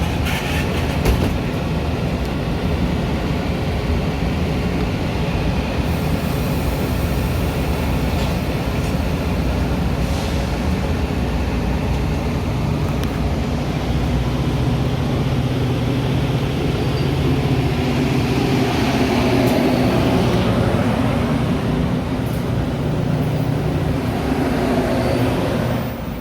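Metra commuter train running at a station platform: a steady low engine hum with the rumble of the rolling cars, a little louder about two-thirds of the way in.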